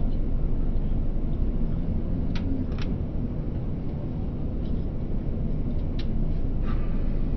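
Airliner cabin noise: a steady low rumble of jet engines and airflow, with a few faint clicks about two and a half seconds in and again about six seconds in.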